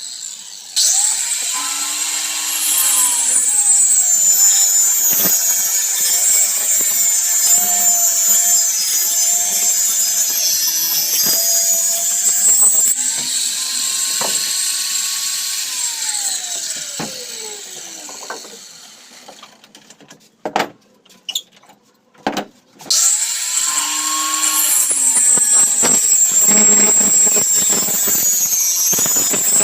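4-inch angle grinder cutting 8 mm plywood: the motor starts with a rising whine and runs, its pitch wavering as the disc works through the wood. About halfway through it is switched off and winds down with a falling whine, there are a few knocks in the short quiet, then it starts again with a rising whine and cuts on.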